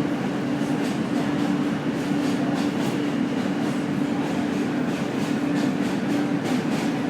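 Subway train running at steady speed: a constant rumble with a steady hum and faint clicking of the wheels over the rails.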